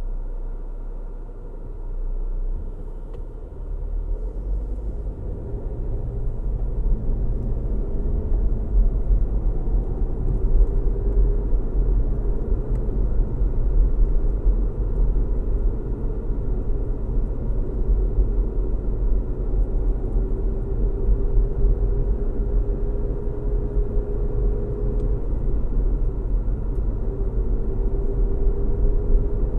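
A car being driven: a steady low rumble of tyre and road noise with the hum of the engine, building over the first few seconds and then holding even.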